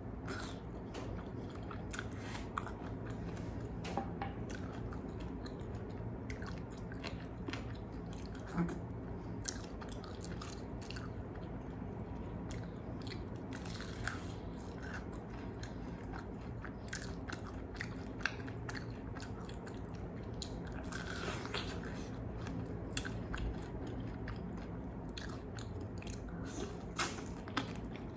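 Close-miked biting and chewing of crispy fried chicken wings: scattered sharp crunches over chewing, with a steady low hum underneath.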